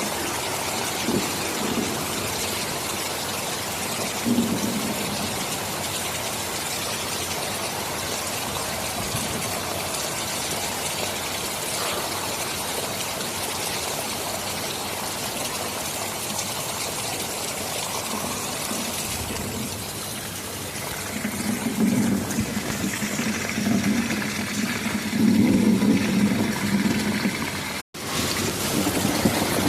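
Steady heavy rain, with a low rumble of thunder building in the second half and swelling loudest a few seconds before the end. The sound cuts out for an instant near the end, then resumes.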